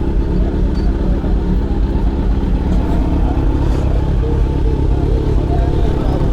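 Kawasaki Z900 inline-four motorcycle engine running steadily under way, with road noise.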